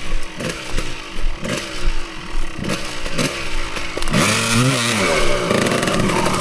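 Dirt bike engine revving in short throttle blips on a trail, its pitch dropping off after each one about twice a second, then a longer rev that rises and falls about four seconds in.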